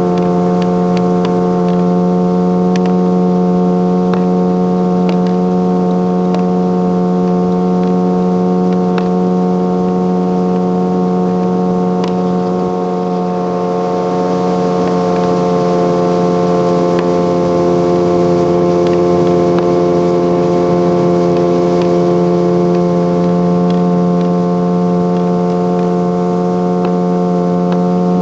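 Motorboat engine running at a steady cruising speed, an even drone that holds one pitch throughout.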